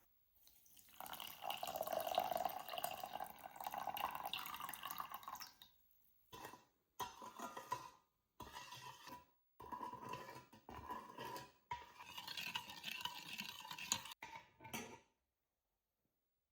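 Water running and splashing: one longer stretch, then several short bursts that start and stop abruptly.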